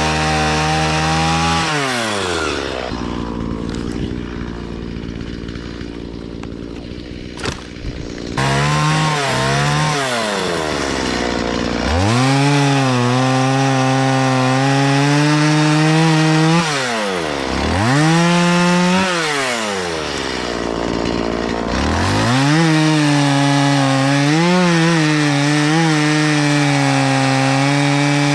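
Stihl two-stroke chainsaw cutting up willow wood at full throttle. About two seconds in it drops to idle for some six seconds, then revs back up; the throttle is let off and opened again three more times between cuts.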